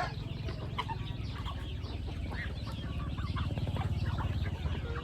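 A flock of chickens clucking, many short calls overlapping, over a steady low hum.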